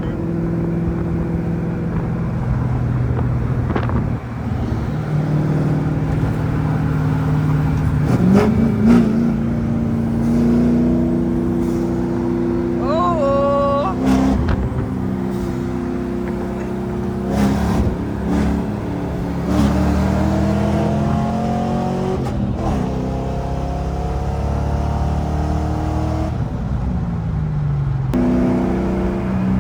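Car engine running and changing speed, its pitch climbing and dropping several times as it revs. A brief high wavering sound cuts in about 13 seconds in.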